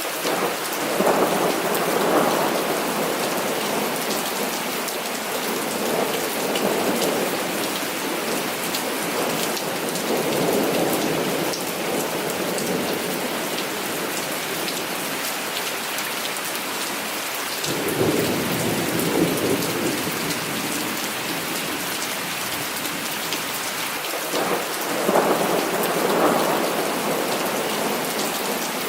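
Heavy rain falling steadily, with rolls of thunder swelling and fading several times, the strongest about a second in, near the middle and near the end.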